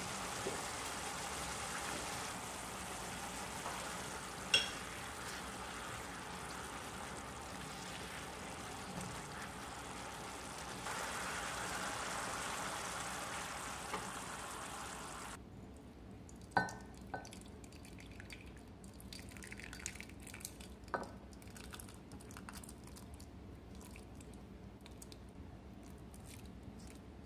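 Food sizzling in a hot wok, a steady hiss. About halfway through it cuts off abruptly to a quieter stretch with a few sharp clinks of a utensil and faint crackling.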